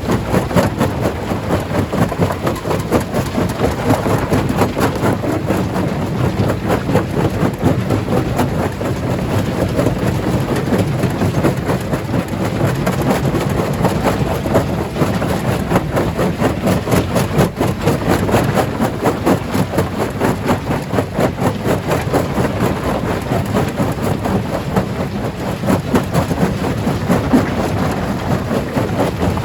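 Stone crusher running under load, with a continuous dense clatter and knocking of rocks being broken.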